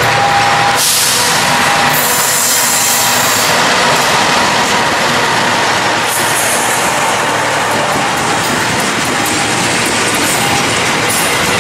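A diesel-hauled passenger train passes close by, its locomotive and coach wheels running over the rails in a steady loud rush of noise. An on-off beeping tone repeats every second or two through it.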